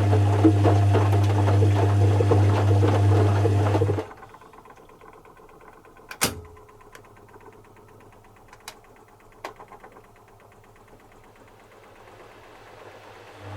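Zanussi FC1000 compact washing machine's drum motor running with a steady mains-like hum, then stopping abruptly about four seconds in. A pause follows with a sharp click and a few lighter clicks, before the motor starts again at the very end: the stop-and-start tumble of a wash cycle.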